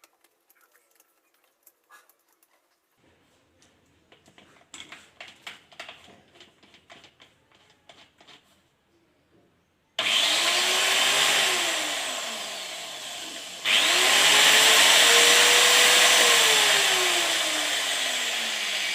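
Light clicks and taps of handling, then about halfway through an angle grinder is switched on, its freshly greased gearbox and motor whining up in pitch and then winding down. It is switched on again partway through the wind-down, revs up to a high whine, and is let go so that it slows and falls in pitch near the end.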